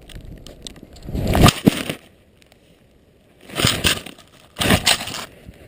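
Deep snow crunching and scraping in three bursts: a long one about a second in and two shorter ones near the end.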